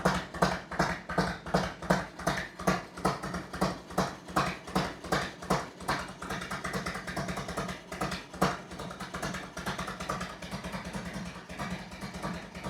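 1991 Harley-Davidson Electra Glide's 1340 cc Evolution V-twin running after starting on freshly cleaned battery terminals. It gives a pulsing beat, slower and stronger for the first half, then quicker and softer.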